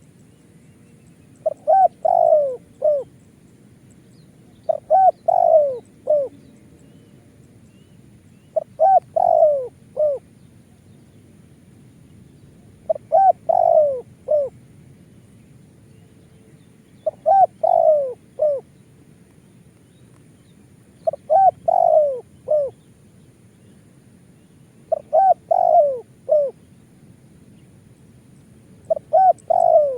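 Spotted dove (tekukur) cooing, repeating its short stuttering coo phrase eight times at a steady pace, about once every four seconds.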